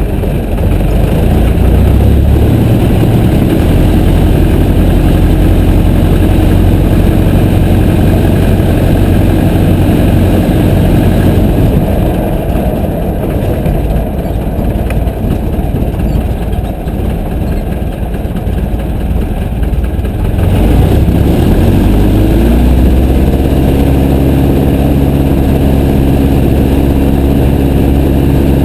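Piper J3 Cub's piston engine running steadily. A little over two-thirds of the way through it revs up, its pitch rising over a couple of seconds, then holds at the higher rpm.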